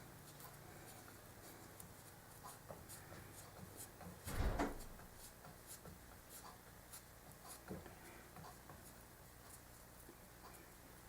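Faint hand-work sounds of a wood glue-up: soft rubbing and scattered small clicks as the glued pieces and clamps are handled, with one louder short knock and rub about four and a half seconds in.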